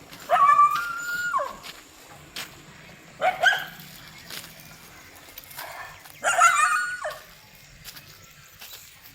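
A dog giving three drawn-out cries, each about a second long or less, with a few seconds between them.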